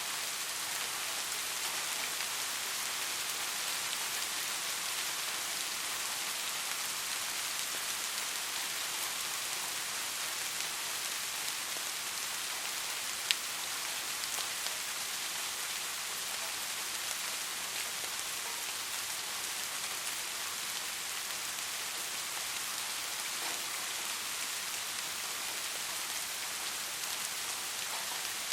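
Steady soft rain, an even hiss with scattered drops ticking, and one sharp drop click about halfway through.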